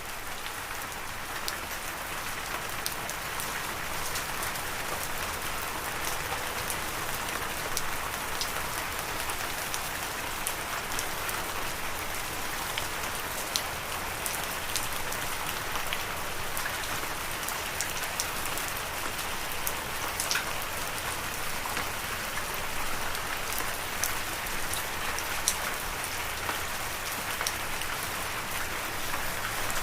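Steady rain falling, a continuous hiss with many distinct drops ticking sharply on a surface.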